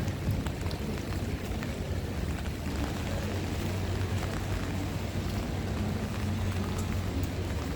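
Steady storm noise of heavy rain and wind, with a low rumble of wind buffeting the microphone.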